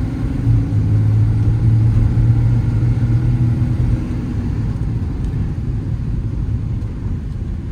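Ram 5500's 6.7 Cummins diesel and road noise heard from inside the cab while driving: a steady low rumble with an engine drone that is strongest in the first half and then eases.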